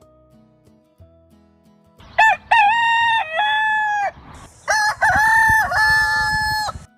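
Rooster crowing twice: two long cock-a-doodle-doo calls of about two seconds each, the second starting about half a second after the first ends.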